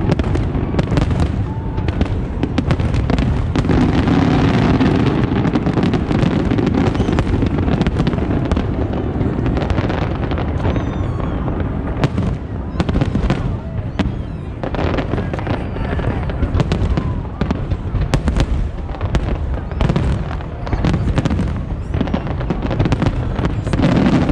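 Aerial fireworks display: many shell bursts in quick, irregular succession over a continuous low rumble.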